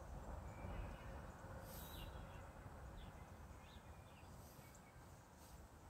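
Near silence: faint outdoor background with a few soft, short bird chirps.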